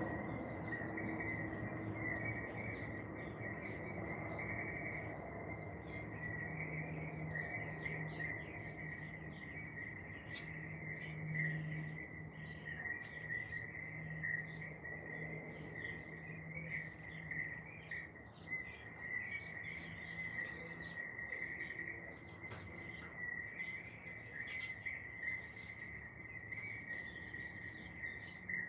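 Garden ambience: a steady insect trill held at one high pitch, with many short bird chirps and calls scattered over it. A faint low hum sits underneath.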